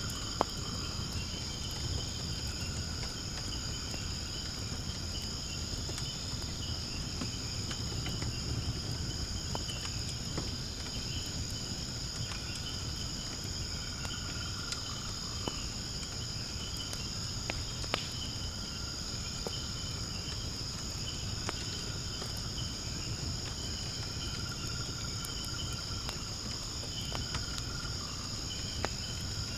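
Steady high-pitched chorus of insects, with a wood fire in a fire pit burning beneath it: a low rush of flame and a few sharp crackling pops from the burning wood, the loudest about half a second in.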